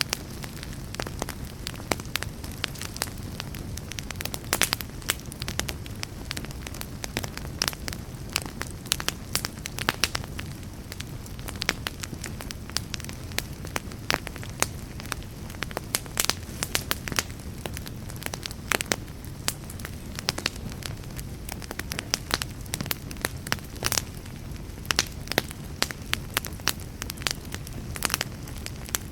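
A fire crackling and popping, with frequent irregular sharp pops over a steady low rumble of the flames.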